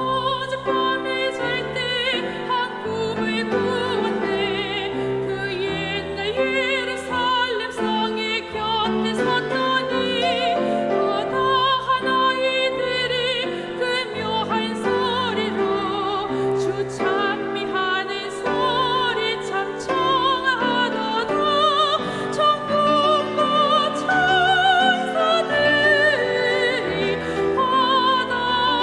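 Church choir singing a slow anthem in full, vibrato-rich voices over piano accompaniment; the voices come in right at the start.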